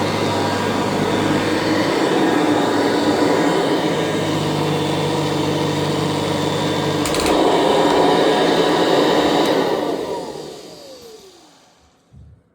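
Kirby Classic III upright vacuum cleaner running steadily, with a couple of clicks about seven seconds in. About three-quarters of the way through there is a click, and the motor winds down with a falling whine to silence.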